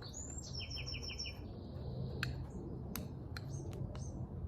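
A bird sings a quick run of about four repeated high chirps in the first second and a half. Under it, a spoon clicks lightly against a bowl a few times, stirring honey and spice powders into a paste.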